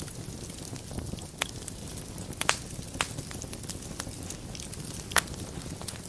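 Fire burning in a fireplace: a steady low rumble of flames with scattered small crackles and a few sharp pops, the loudest a pair about two and a half seconds in and one near the end.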